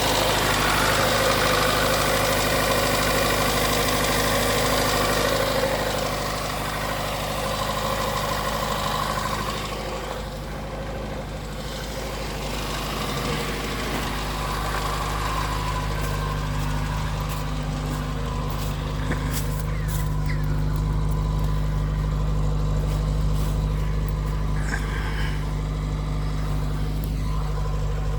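Lada 2114's 1.5-litre four-cylinder engine idling steadily. A loud hiss sits over it for the first ten seconds or so, then dies away, leaving a quieter, even idle.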